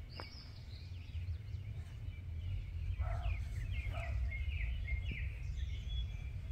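Wild birds singing, a run of short, quick, downward-sweeping chirps that grows busier about halfway through, over a steady low outdoor rumble.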